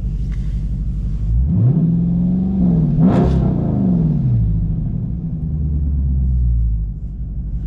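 Dodge Scat Pack's 6.4-litre HEMI V8 idling, then revved up about a second and a half in, held high with a brief dip and a second blip around three seconds, before dropping back to idle.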